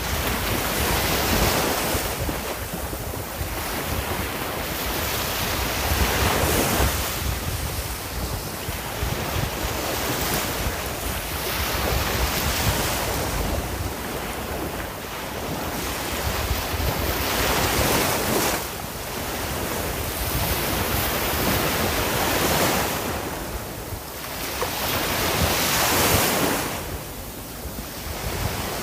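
Sea waves breaking and washing up on a shore, the surf swelling and easing every few seconds, with some wind on the microphone.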